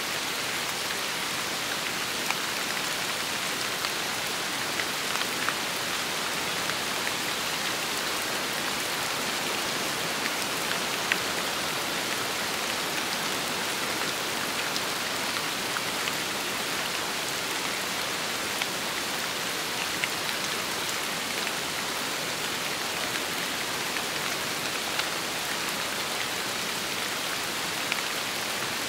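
Steady rain falling, an even hiss with scattered sharper drop ticks standing out now and then.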